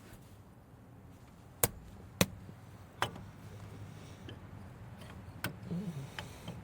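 Sharp metal clacks and knocks as a brake caliper is worked into place over the pads and rotor. Three loud strikes about half a second to a second apart come early on, another a few seconds later, and lighter clicks fall between them.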